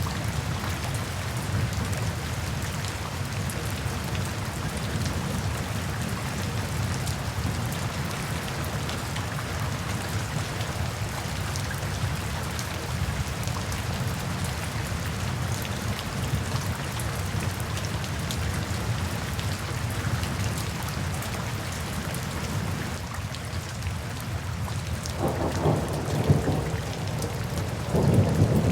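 Steady rain falling, with scattered drops ticking through it. A low rumble of thunder swells up near the end.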